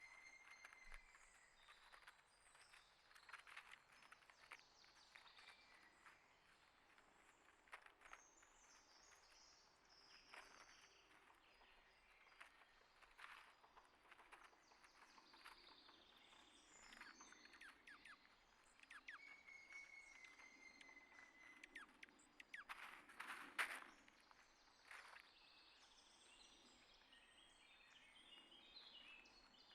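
Faint outdoor ambience of wild birds chirping and calling, with thin whistled notes now and then, over scattered small clicks and taps. The loudest moment is a quick cluster of clicks about two-thirds of the way through.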